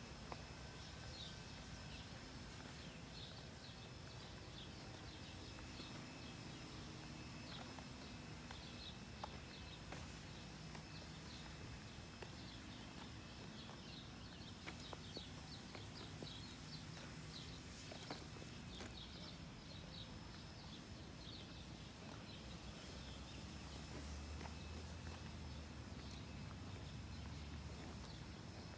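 Faint outdoor ambience: small birds chirping in short, repeated calls, over a low, steady rumble.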